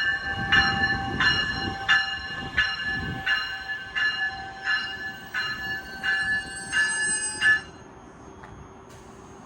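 A warning bell ringing in even strokes, about one and a half a second, over the rumble of a passing Metra Electric electric multiple unit train. The bell stops about seven and a half seconds in.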